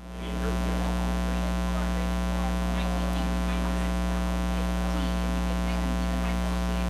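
Steady electrical mains hum: a buzz of many even overtones that fades in over the first half second, then holds unchanged.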